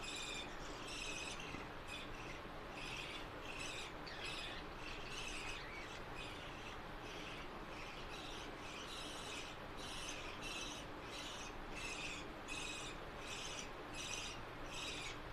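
Budgerigar chicks begging with short, high, repeated chirps, about two a second, while their mother feeds them.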